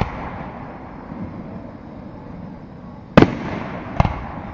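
Aerial fireworks shells bursting: one boom right at the start, then two louder booms under a second apart about three seconds in, each trailing off in a rumbling echo.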